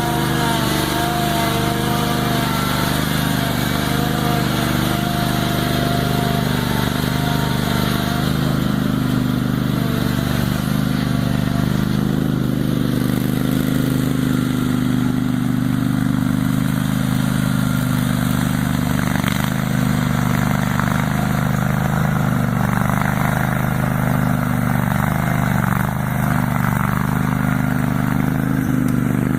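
Craftsman garden tractor engine running steadily, with a higher whine over it that fades out about eight seconds in.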